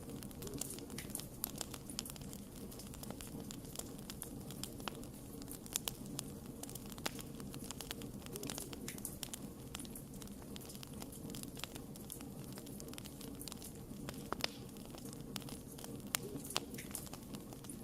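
Burning campfire wood crackling, with irregular sharp pops, a few louder than the rest, over a low steady rush.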